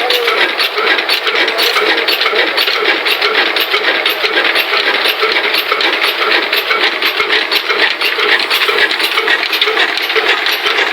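Old engine-driven atta chakki (stone flour mill) running: a steady, fast mechanical clatter with a sharp tick repeating about two to three times a second.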